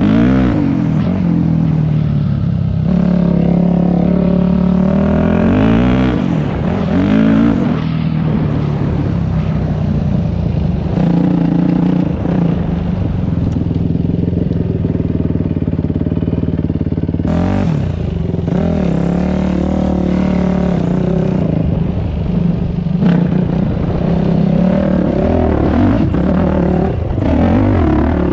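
Dirt bike engine running under riding load, its pitch climbing and dropping repeatedly as the throttle opens and closes.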